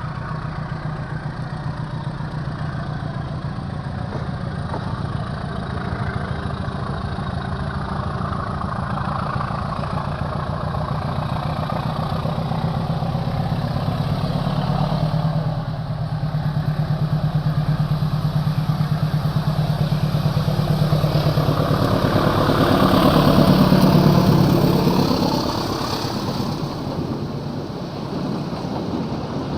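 A vehicle engine running with a steady low hum, growing louder to a peak about three quarters of the way through, then easing off.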